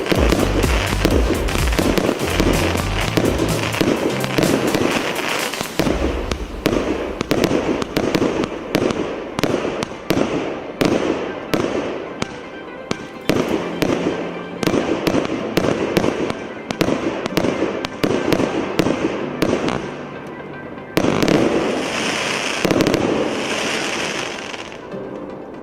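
A 120-shot, 1-inch consumer fireworks cake firing in rapid succession: a dense barrage of launches and aerial bursts, very rapid for the first six seconds and then more spaced, with a final flurry of louder bursts before it fades out.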